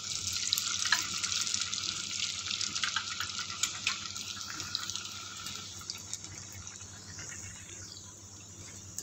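Kothimbir vadi (steamed coriander and gram-flour slices) frying in hot oil in a kadhai: a dense sizzle with crackles, loudest in the first few seconds and dying down after about five seconds.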